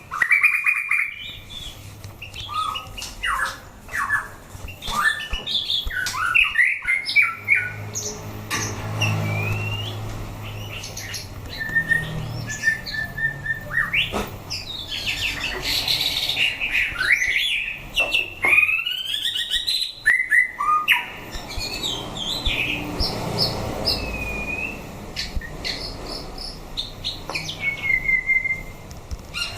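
White-rumped shama singing a loud, unbroken run of varied whistled phrases, with rising and falling slurred notes, quick trills and sharp clicks.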